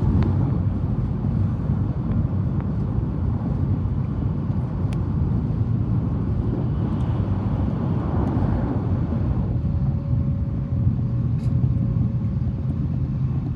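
Tokaido Shinkansen Kodama train heard from inside the passenger cabin at speed: a steady low rumble, with a faint steady tone joining in about ten seconds in.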